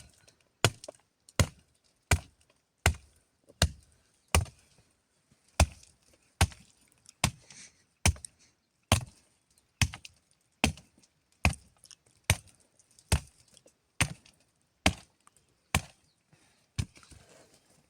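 Steady series of sharp chopping blows, about four every three seconds, stopping near the end.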